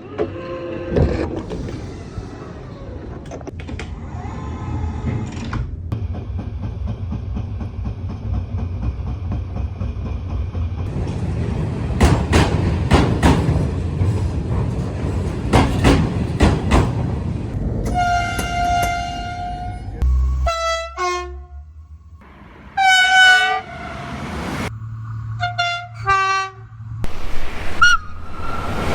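Train sounds in quick succession: a train running with a steady low rumble and a run of sharp clicks from the wheels over the rail joints, then a long train horn blast about 18 s in, followed by several short horn toots.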